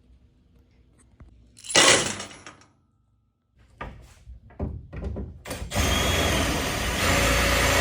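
Work on a boat's wooden transom: a brief rush of noise, a few sharp knocks, then a power tool starts and runs steadily from about six seconds in.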